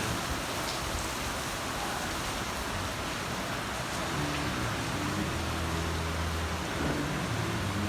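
Heavy rain falling steadily, an even hiss, with faint low steady tones underneath about halfway through.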